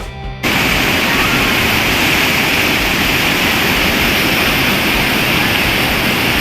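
Background music cuts off about half a second in, giving way to a loud, steady rush of whitewater from a river rapid.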